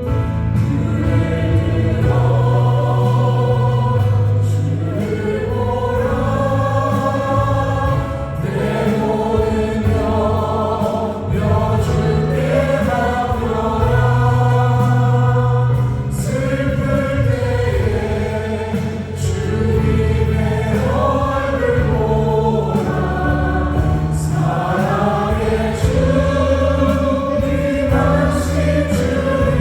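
A church praise team of several singers singing a Korean worship song together, with held, gliding sung notes over keyboard chords, drums and acoustic guitar.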